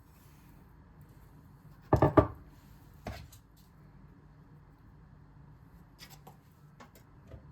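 Kitchen things being handled on a counter: a quick cluster of sharp knocks about two seconds in, one more knock a second later, then a few faint light clicks near the end.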